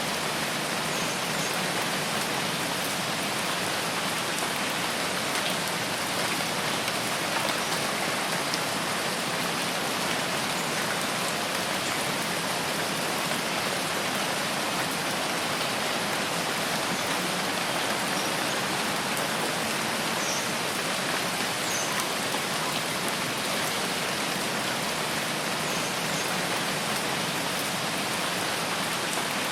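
Steady, even rain falling and pattering on surfaces, with no letup.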